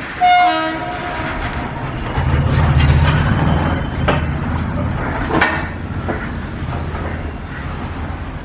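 Electric train horn blows one short blast, dropping slightly in pitch, followed by the low rumble of a passing train that swells and then holds steady, with two sharp clanks from the wheels or wagons.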